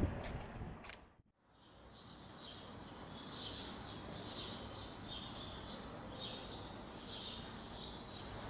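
Small birds chirping and singing in short repeated phrases over a faint low background hum. Before that, a fading rumble cuts off abruptly about a second in.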